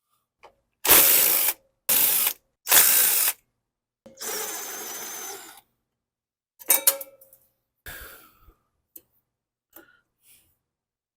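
A power tool run in three short, loud bursts, then once more for about a second and a half, longer and quieter. Several light metal clinks and clanks follow.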